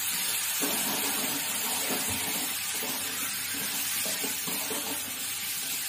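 Diced elephant yam sizzling steadily in hot oil and spice masala in a pressure cooker as it is sautéed, with the faint scrape and knock of a spoon stirring the pieces.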